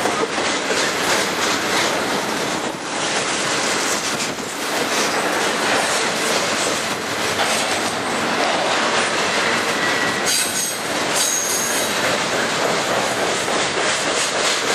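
Double-stack intermodal container cars of a freight train rolling past close by: steady, loud wheel-on-rail rolling noise, with a brief high-pitched wheel squeal about ten seconds in.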